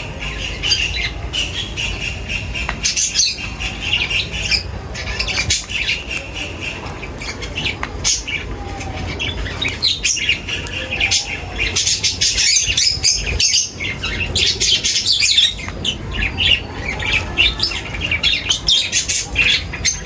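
A flock of small birds chirping and squawking together in a dense, overlapping chatter of short high calls. The calls are busiest a little past the middle.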